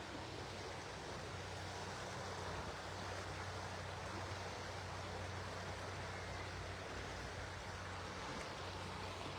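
Steady rushing of flowing river water, an even unbroken noise with a low steady hum beneath it.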